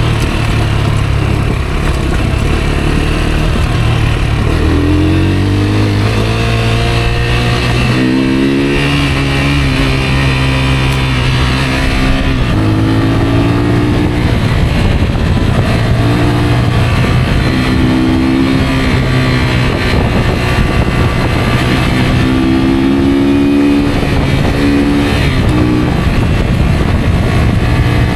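A Rieju Aventura 125 motorcycle's single-cylinder 125 cc engine under way, its note rising and then dropping back again and again as the throttle is opened and eased off.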